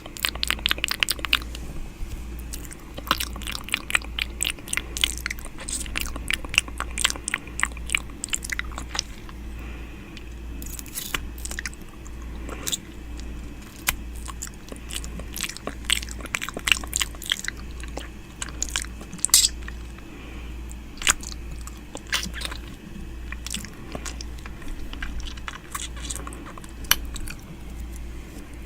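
ASMR ear-eating mouth sounds close to the microphone: wet lip and tongue clicks and smacks coming in irregular clusters, some dense and some sparse.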